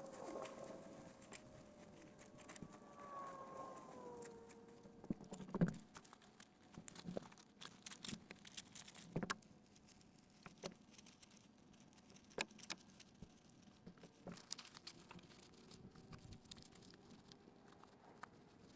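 Raindrops tapping irregularly on tent or tarp fabric, sharp single drips over a faint hiss, most frequent in the middle stretch. Faint gliding tones slide downward in the first few seconds.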